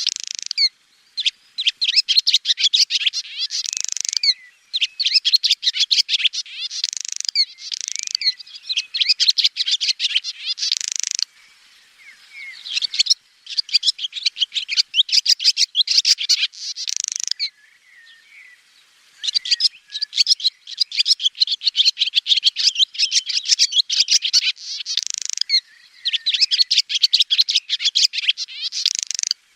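Swallow twittering: rapid runs of high chirps and trills in phrases a second or two long, broken by short gaps and a couple of longer pauses.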